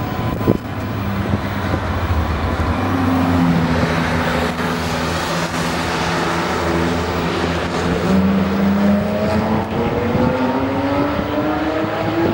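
Nissan GT-R's twin-turbo V6 running under load with a loud road and wind rush, its pitch holding steady and then rising steadily near the end as the car accelerates.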